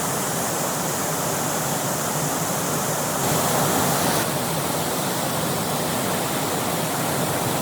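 Mountain stream rushing steadily over rocks, a constant wash of water noise that swells slightly about three seconds in.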